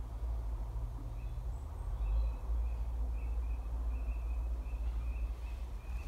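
A small bird calling in a run of short high notes, about three a second, starting about two seconds in, over a steady low rumble on the microphone.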